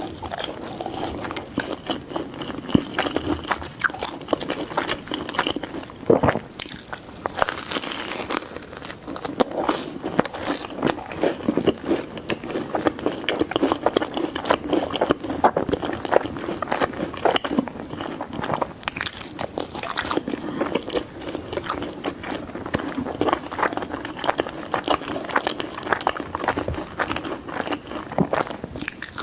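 Close-miked chewing and biting of pizza: a steady run of irregular crunches and mouth clicks, with a brighter crunchy stretch about seven to eight seconds in.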